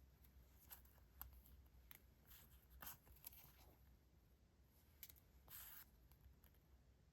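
Faint paper handling: scattered soft crinkles and light taps, with a longer paper rustle about five and a half seconds in.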